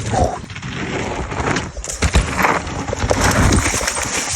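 Mountain bike ridden fast over a rough dirt trail: continuous tyre and wind noise with irregular knocks and rattles from the bike.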